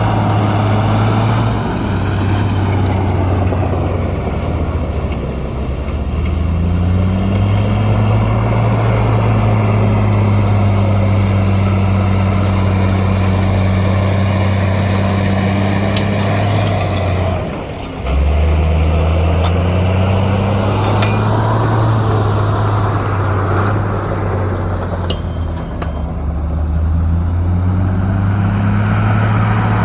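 Heavy diesel engine of earthmoving machinery running steadily, its pitch easing down and back up several times as the load changes. The sound drops out briefly about two-thirds of the way through, then picks up again.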